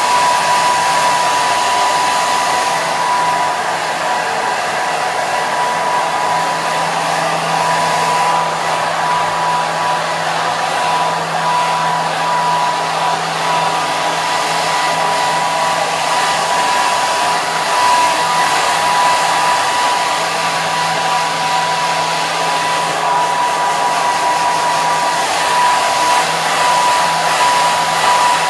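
Hair dryer running steadily: an even rush of blowing air with a constant whine from its motor.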